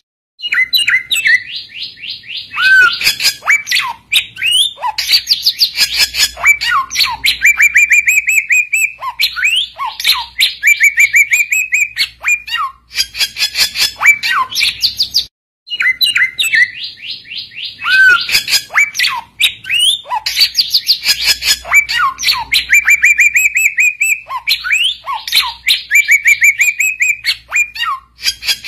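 Samyong bird singing a loud, rapid chattering song of trills and short whistled notes, a rival-calling song of the kind used to provoke other samyong into answering. The same sequence of phrases repeats after a short break just after halfway, as in a looped recording.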